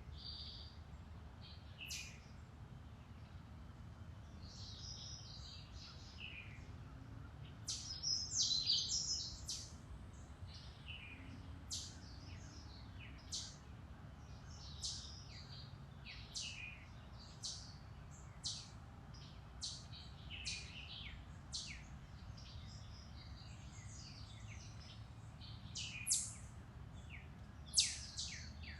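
Several woodland birds chirping and singing, with short chirps and trills coming every second or so and a busier, louder stretch about eight seconds in. A steady low rumble runs underneath.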